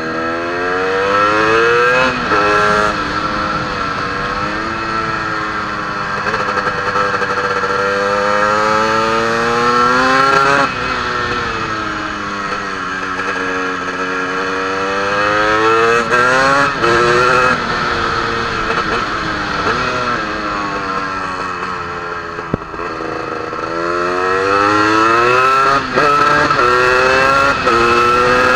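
Onboard sound of a KTM EXC 300 single-cylinder two-stroke motorcycle engine being ridden hard: the revs climb, break briefly at gear changes, then fall away again, several times over.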